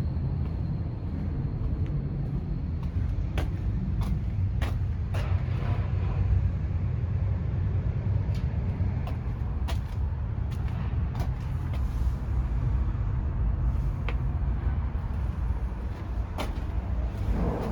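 Dump truck's diesel engine idling steadily, a low rumble, with scattered sharp clicks and knocks over it.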